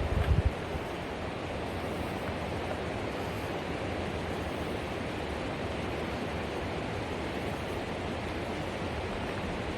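Steady rushing of the Green River's water over rapids or falls, an even, unbroken roar. A few low thumps in the first half second, like wind knocking on the microphone.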